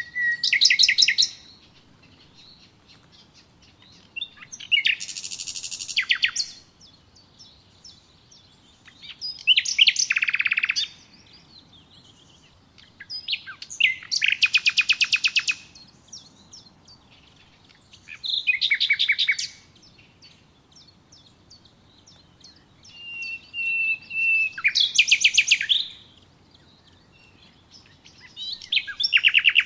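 A songbird singing a series of short songs, one every four to five seconds. Each song is a fast trill of rapidly repeated notes, some led in by a thin, steady whistled note.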